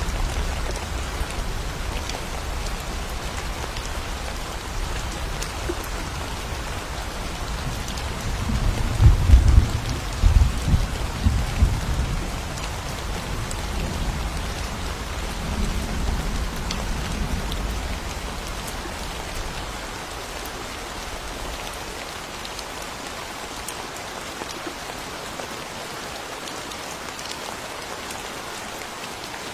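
Steady rain falling in a forest during a thunderstorm. A low rumble of thunder rolls in about eight seconds in, is loudest over the next few seconds, and then dies away, leaving the rain hiss alone near the end.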